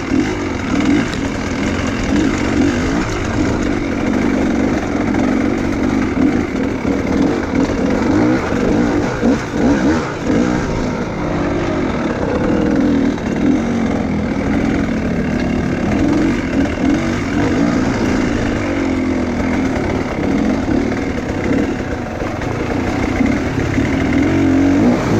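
Enduro motorcycle engine running hard while being ridden off-road, its revs rising and falling constantly as the throttle is worked.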